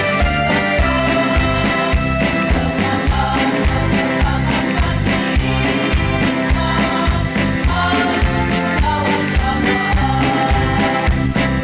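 Choir singing to amplified backing music with a bass line and a steady beat, with bright high percussion strokes about three times a second.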